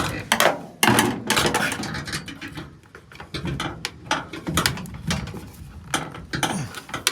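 Irregular metal clinks, clanks and rattles of hand tools and parts being handled while a hose and its clamps are worked loose.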